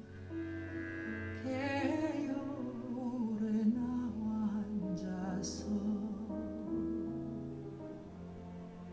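Classical-style vocal music: a singer holding notes with vibrato over sustained instrumental accompaniment, played back through Wharfedale Linton Heritage loudspeakers driven by a Primare i15 Prisma amplifier and heard in the listening room.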